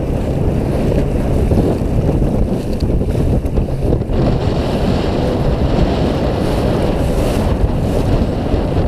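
Strong wind buffeting the microphone in a steady low roar, with a boat's motor running underneath as a faint steady hum.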